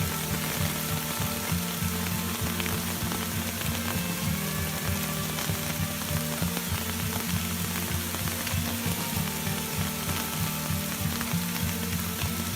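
Heavy rain falling as a steady hiss, with background music and a low, rhythmic beat underneath.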